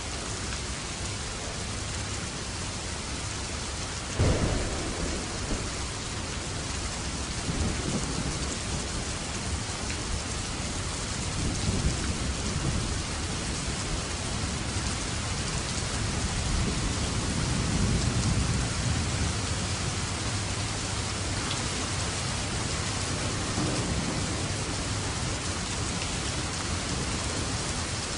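Steady rain with thunder: a sharp crack of thunder about four seconds in, then several deep rolling rumbles that swell and fade under the constant rain.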